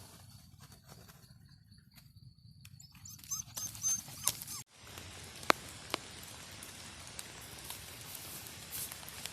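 A dog whimpering in a few short whining calls about three to four seconds in. After an abrupt break come two sharp clicks, the first the loudest sound, over a steady low background rumble.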